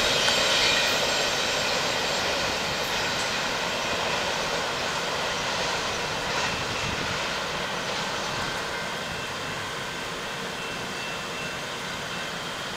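Long double-stack container freight train rolling away down the track, its rail and wheel noise fading steadily as it recedes.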